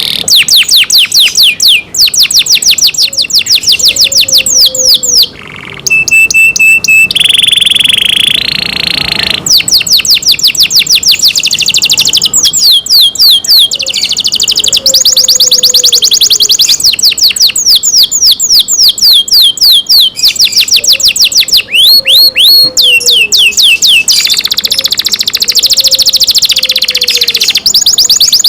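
Canary singing loud, fast trills of repeated high downward-sweeping notes, in runs broken by short pauses, with a held steady whistle-like note about eight seconds in.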